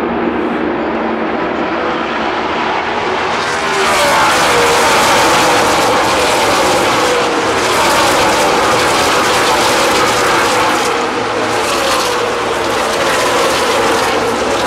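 A pack of NASCAR Nationwide Series V8 stock cars racing past at speed. The sound gets louder about four seconds in as cars come by, and their engine notes fall in pitch as they pass.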